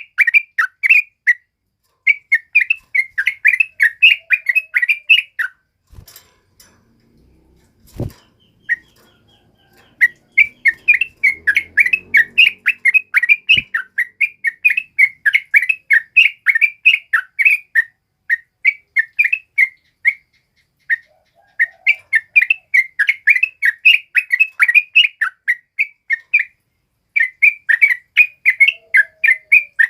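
Yellow-vented bulbul (trucukan) singing: long runs of rapid, bubbling chattering notes, several a second. The song breaks off for about four seconds early on, when a few knocks and a sharp thump are heard, then resumes with brief pauses between phrases.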